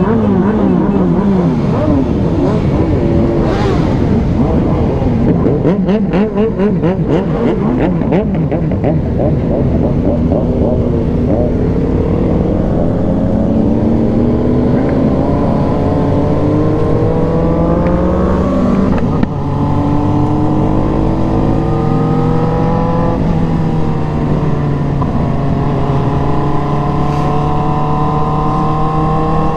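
Motorcycle engine under way, its pitch climbing steadily as it accelerates, then dropping sharply with a gear change about nineteen seconds in before climbing slowly again.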